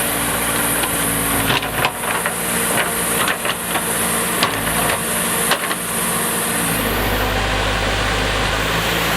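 Diesel engine of heavy earthmoving machinery running steadily, with scattered sharp knocks and clanks in the first two-thirds, then running evenly.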